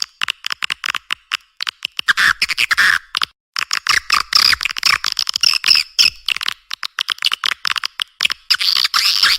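Swiftlet chirps and twitters in rapid, dense chattering, with short breaks about a second in and a little after three seconds. This is a swiftlet response-call track of the kind played to draw swiftlets to a nest house.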